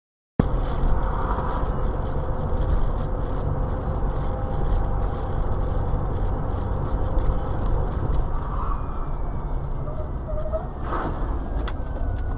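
Steady road and engine noise of a car on the move. It starts abruptly about half a second in.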